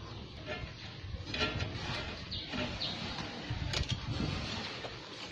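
Scattered small clicks and knocks of hands and parts as a control cable is detached from a Lambretta scooter engine, with a few bird calls behind.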